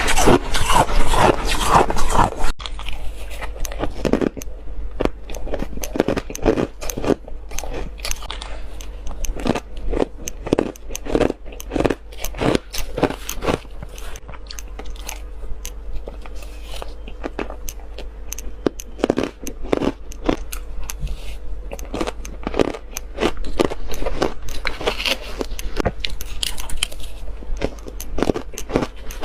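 Close-miked biting and chewing of shaved ice, a fast run of crisp crunches and crackles. The crunching is louder and denser for the first two seconds or so, then goes on as steadier chewing crunches.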